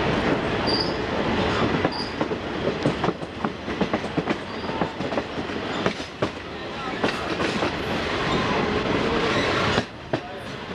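Excursion train running along the track, heard from aboard a coach: a steady rush of rail noise with rapid wheel clicks over rail joints. The noise dips suddenly near the end.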